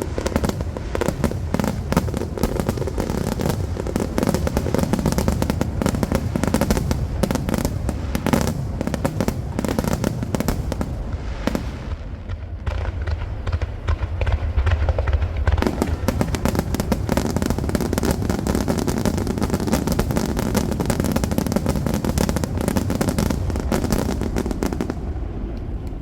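Fireworks star mine finale: a continuous rapid-fire barrage of shells bursting, dense overlapping bangs over a deep rumble, the crackle thinning briefly about halfway through.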